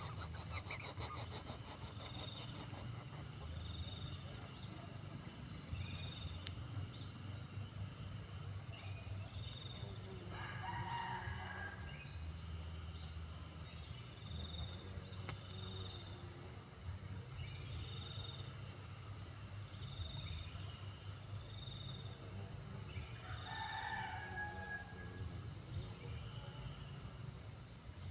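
Steady insect chorus: a constant high-pitched buzz with a chirp repeating about every second and a half, over a low hum. Two bird calls break in, about ten seconds in and again near the end; the second ends on a held note.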